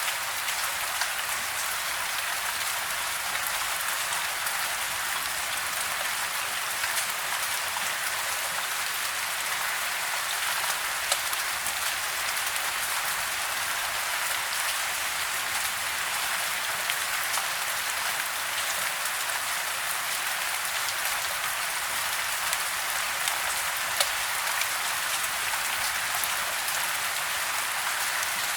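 Steady soft rain falling: an even hiss with scattered sharper drop ticks now and then.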